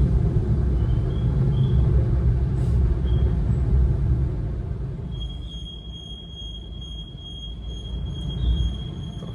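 Automatic car wash machine working over the rear of the car, heard from inside the cabin: a heavy low wash of noise that eases about halfway through, after which a steady high whine sets in.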